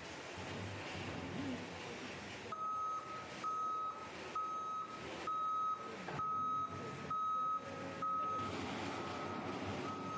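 Wheel loader's reversing alarm beeping steadily about once a second, starting a couple of seconds in, over the sound of its engine running.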